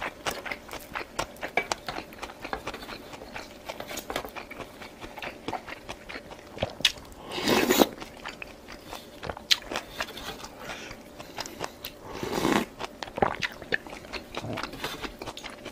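A person chewing and crunching food close to the microphone, with a steady run of small sharp mouth clicks. Twice, about halfway through and again near three-quarters, there is a longer, louder sound.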